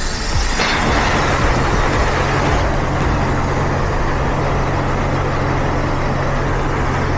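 Self-serve car wash spray wand spraying pre-soak with a loud hiss that starts about half a second in and eases a little after a couple of seconds, over a steady low hum. The pre-soak is coming out at high pressure instead of the medium pressure it is designed for.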